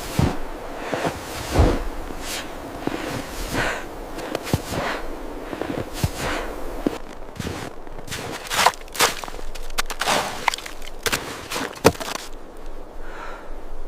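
A run of irregular footsteps and brushing sounds, with some sharper knocks about nine and twelve seconds in.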